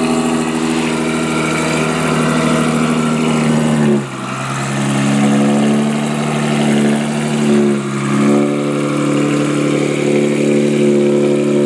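Tuned Nissan GT-R's twin-turbo V6 idling through its quad exhaust, with an even note that dips briefly about four seconds in.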